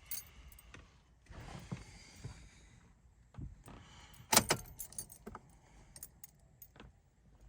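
Metallic clinking and rattling handling noises, with one sharp loud knock about four and a half seconds in.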